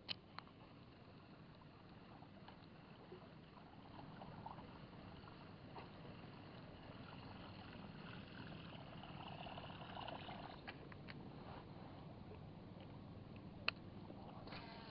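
Faint water lapping with low, steady outdoor background noise, broken by a few light clicks near the start and twice near the end.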